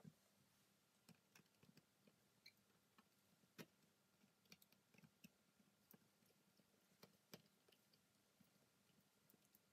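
Near silence with faint, irregular light clicks of small steel lathe-chuck parts being handled and set in place.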